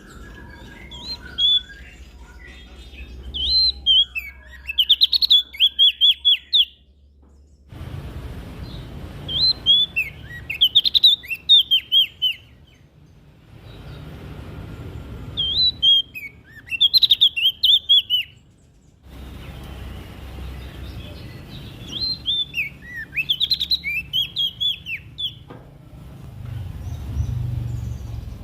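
Prenjak daun (leaf warbler) singing in repeated bouts of quick, high, chirping notes, each bout a few seconds long with short pauses between, over a low background hum.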